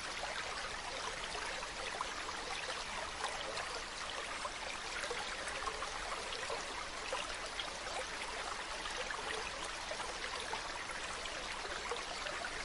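Mountain stream running steadily: a continuous rush of water flecked with many small splashes.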